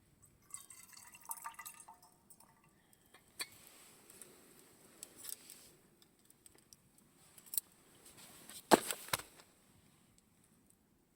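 Campfire crackling: scattered small pops and snaps from the burning fire, with one sharp, loud pop about nine seconds in.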